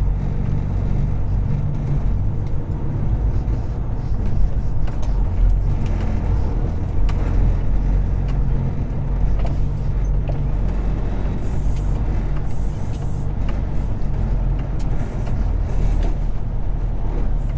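Semi truck's diesel engine running at low speed, a steady low rumble heard from inside the cab, with a couple of brief hisses in the second half.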